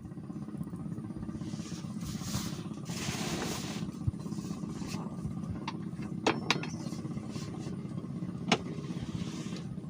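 An engine running steadily with a low, even hum, with a few sharp clicks or knocks over it.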